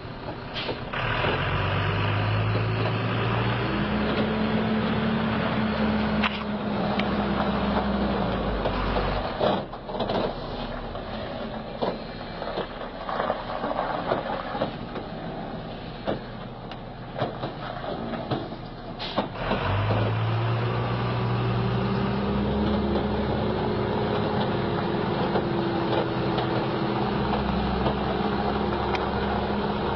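Heavy truck engine pulling under load, its pitch climbing and then holding, twice. Between the two pulls, a noisier stretch of rattling and knocking.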